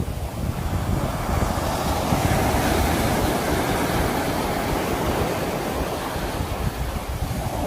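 Sea waves washing in, a steady surf rush that swells about a second in and eases near the end, with wind on the microphone.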